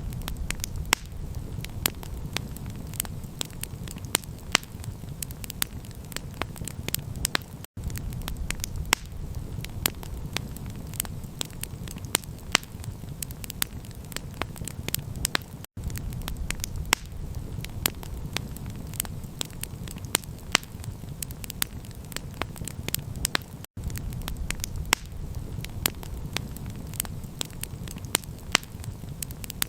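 Campfire crackling, with frequent sharp pops and snaps over a steady low rumble of the burning fire. The sound drops out for an instant about every eight seconds.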